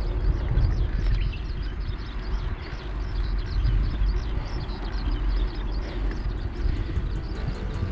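Wind rumbling on the microphone of a moving bicycle, with many birds chirping throughout. Music with a steady beat fades in near the end.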